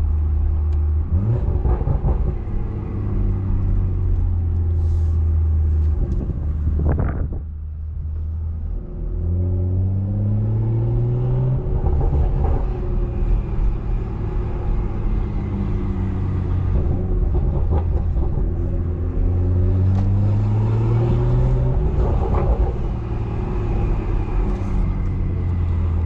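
BMW 340i's straight-piped, big-turbo inline-six engine under way, pulling up in pitch and dropping back at the gear changes, twice, with wind on the microphone.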